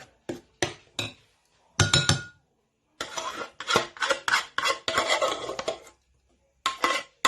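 A metal spoon knocking and scraping around a mixing bowl while cream is folded into a custard mixture: a few short knocks, one with a brief clink, then about three seconds of steady scraping and stirring, and another short burst near the end.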